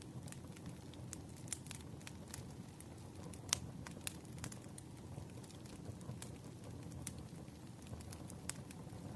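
Wood fire crackling: irregular sharp pops and snaps over a low, steady rumble of burning logs, with one louder pop about three and a half seconds in.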